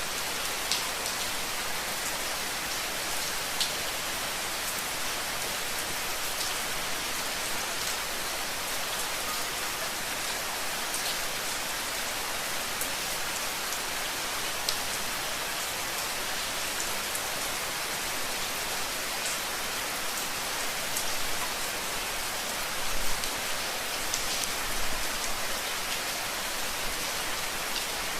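Steady rain: an even hiss of falling rain with scattered sharper drop ticks, and a brief low rumble a little past two-thirds of the way through.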